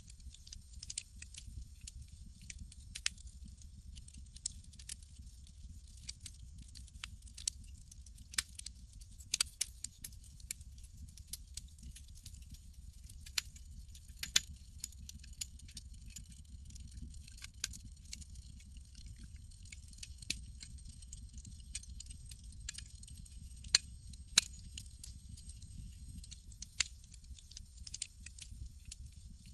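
Campfire crackling, with irregular sharp pops and snaps, a few louder than the rest, over a steady low rumble.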